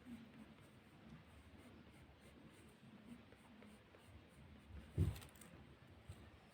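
Faint scratching of drawing strokes on paper, with a single short thump about five seconds in.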